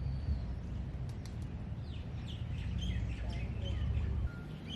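Several birds chirping in short, scattered calls over a steady low rumble, which drops away abruptly about four seconds in.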